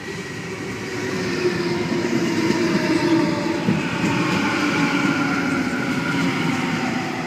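Sydney Trains Waratah A-set electric train pulling into the platform, its traction motors whining in several tones that slowly fall in pitch as it slows, over the rumble of the wheels on the rails. The sound grows louder over the first couple of seconds, then holds.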